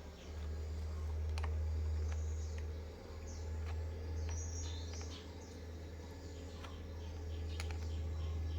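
A steady low hum, with scattered sharp clicks and birds chirping in the background.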